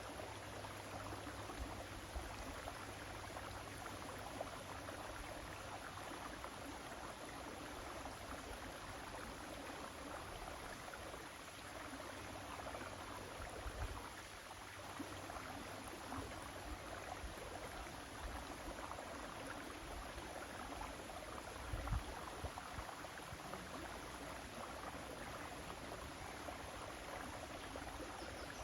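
River water flowing steadily with an even rushing sound. Two brief low thumps break in, about halfway and about three-quarters through, the second the loudest.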